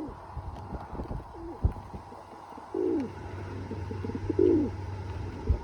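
A bird cooing: two low coos that fall in pitch, about a second and a half apart.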